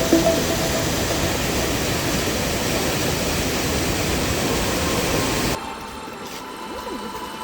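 Waterfall water rushing as a steady, full hiss. About five and a half seconds in it cuts suddenly to a quieter, more distant rush.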